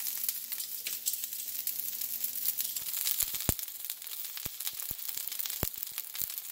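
Jalapeño, onion and garlic sizzling in hot oil on a flat griddle pan, a steady hiss with scattered sharp pops from the oil.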